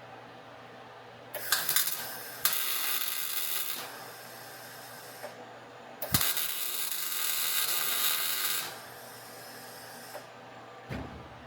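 Two short runs of MIG welding on sheet-metal rocker-panel patches, each a crackling sizzle of about two and a half seconds. The first starts about a second in and the second near the middle. Each begins with a sharp crack and stops abruptly, and a couple of light knocks follow near the end.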